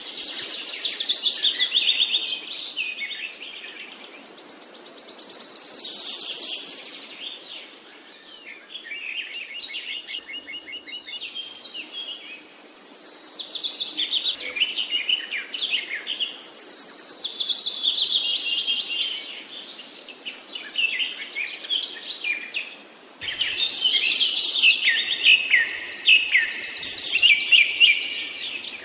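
Songbirds singing: long, rapid phrases of high twittering trills and falling whistled notes, in bouts of a few seconds with brief lulls between them.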